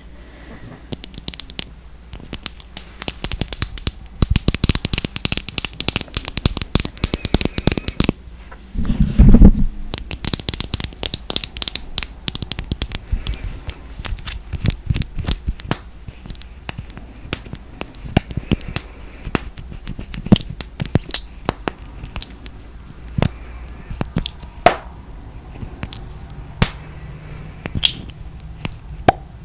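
ASMR tapping and scratching with fingernails on makeup packaging: fast, irregular clicks and taps, densest in the first half, with one louder dull thump about nine seconds in.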